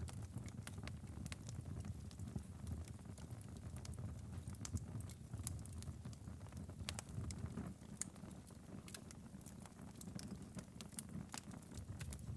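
Fireplace fire crackling: irregular sharp snaps and pops over a low steady rumble.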